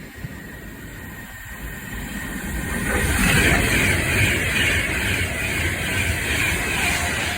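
Train passing by: the rumble and hiss of wheels on the rails build up over the first few seconds, then stay loud as it goes past.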